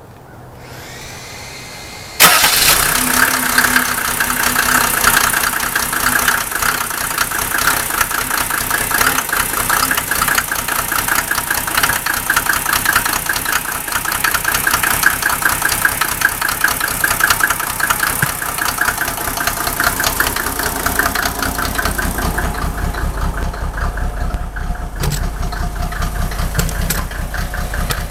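Mercedes OM603 straight-six diesel cold-started: it cranks for about two seconds, catches suddenly, then idles loudly with a dense, uneven pulsing. The engine runs very rough when cold.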